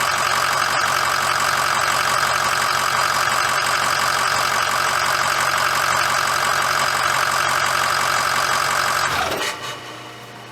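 2006 Ford F-350's 6.0 L Power Stroke V8 turbodiesel idling steadily, running fine after a fuel-filter change and bleeding of air from the fuel system. The sound drops away quickly about nine seconds in.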